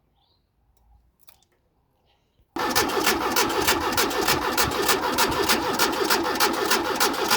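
VW Golf Mk1 engine being cranked by its starter motor. It begins suddenly about two and a half seconds in and turns over with an even beat of about six or seven pulses a second without catching, on a car that has not been starting.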